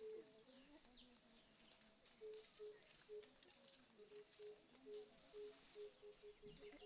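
Faint birdsong: a dove calls a run of short, low coos on one pitch that come faster and faster from about two seconds in, with faint chirps from other birds.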